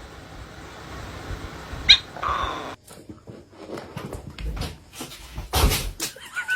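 A dog making a short, high-pitched sound about two seconds in, followed by a run of knocks and thuds, the loudest near the end.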